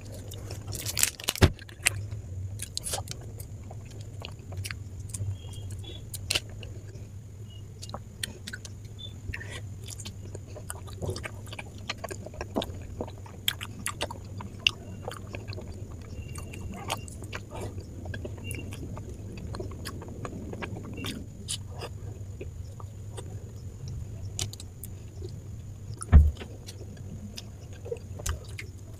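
Close-miked chewing and mouth sounds of a person eating soft Indian milk sweets, with scattered small clicks and one louder knock near the end, over a steady low hum and a faint high whine.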